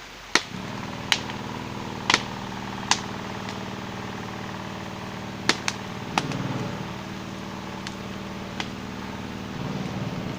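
A crackling wood campfire giving sharp single pops, about eight of them at uneven intervals, over a steady low hum.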